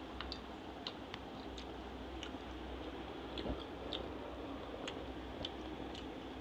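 Someone eating fried dhuska bread by hand, with wet mouth clicks and smacks while chewing: irregular sharp clicks every half second or so, and one duller knock about halfway through. A steady low hum runs underneath.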